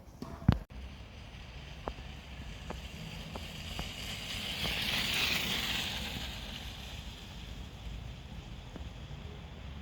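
Wind buffeting the microphone with a low rumble while riding a bicycle. A hiss swells and fades around the middle. There is a sharp click about half a second in and a few faint ticks after it.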